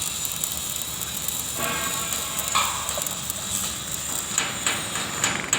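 Welding arc crackling and hissing steadily. From about four seconds in, a run of sharp metallic knocks, as from a hammer on steel, joins it.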